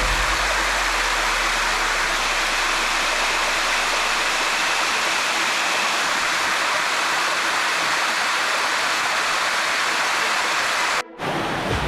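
Water rushing steadily down a cascading limestone waterfall. The sound breaks off for a moment about eleven seconds in, then resumes.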